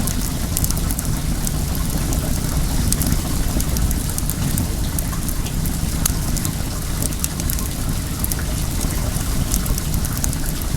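Wood fire crackling, with many sharp little pops, over the steady rush of flowing well water.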